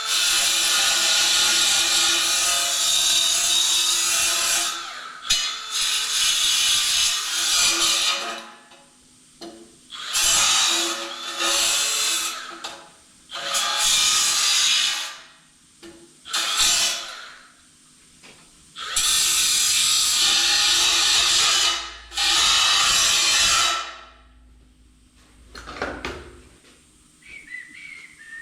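Handheld electric power tool run in about seven bursts, most a few seconds long with short pauses between, each a high, hissing whine over a steady motor tone.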